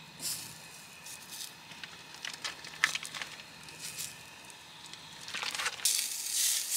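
Scattered light clicks and crinkling of food being handled, then, about six seconds in, smoked sausages sizzling loudly as they fry.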